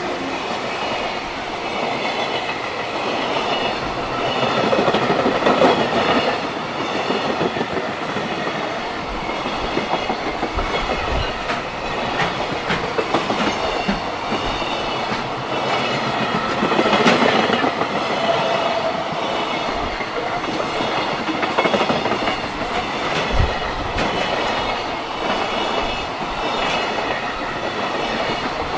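Freight train's container flatcars rolling past close by, wheels clattering over the rail joints in a continuous clickety-clack over a steady running rumble, with a few louder clunks along the way.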